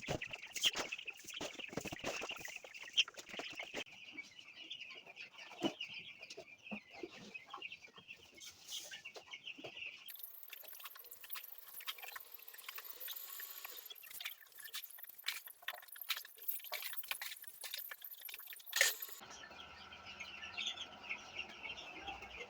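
A flock of 12-day-old chicks peeping continuously, a dense high-pitched chorus, while they are being fed. In the middle comes a long stretch of hissing and rustling with many sharp clicks, the sound of the feed being handled and poured into the trough, before the peeping comes back to the fore near the end.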